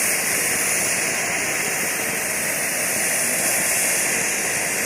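Hand-held tezutsu bamboo-tube firework spraying its fountain of sparks: a steady, loud rushing hiss with no break.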